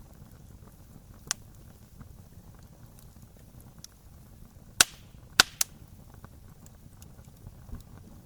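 Wood campfire burning, with a low steady rumble and light crackle, broken by sharp pops from the burning wood: one about a second in, then two loud pops and a smaller one in quick succession near the middle.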